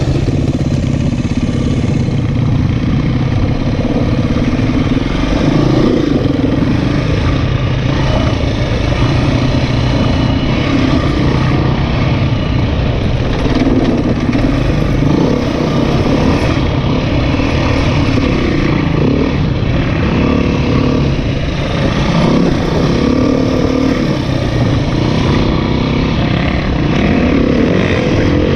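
Dirt bike engine running hard as it is ridden off-road, its revs rising and falling continuously with throttle and terrain.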